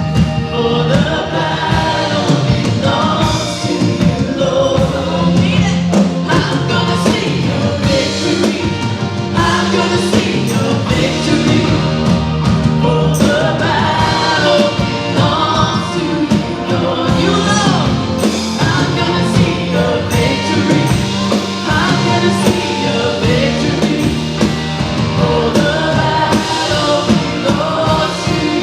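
A worship band playing a song with singers, a steady drum beat and full band backing.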